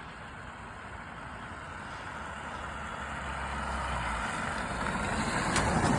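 Garbage truck driving closer, its engine and road noise growing steadily louder.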